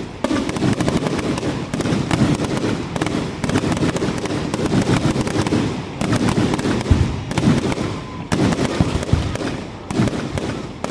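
Fireworks show in full flow: dense, continuous rapid-fire bangs and crackling from many shells and cakes going off at once, with heavier booms here and there.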